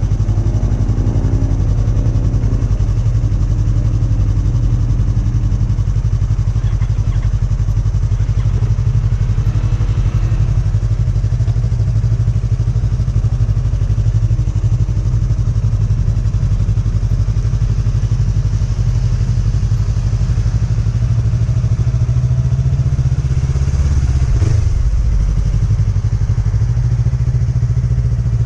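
Motorcycle engine running at low, steady revs, with a brief dip and rise in pitch near the end.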